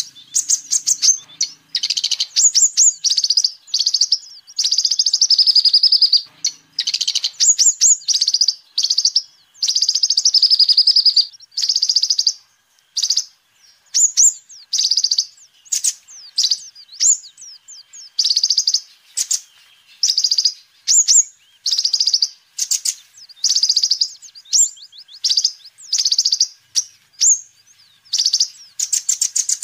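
Kolibri ninja sunbird singing: fast, high-pitched twittering phrases of about half a second to a second and a half, one after another with short pauses.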